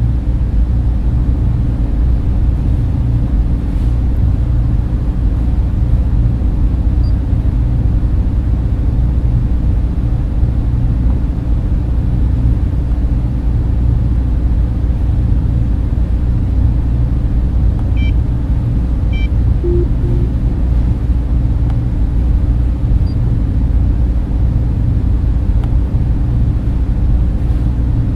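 Steady low hum of data-center server and cooling fans, constant in level and heaviest in the bass. A couple of faint short beeps sound about two-thirds of the way through.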